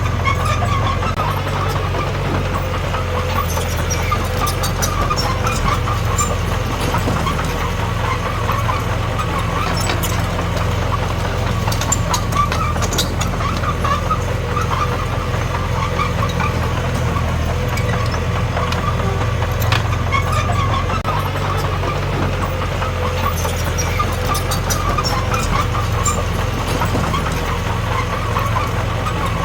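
Komatsu D21P bulldozer's diesel engine running steadily under work, with scattered light clicks and clanks.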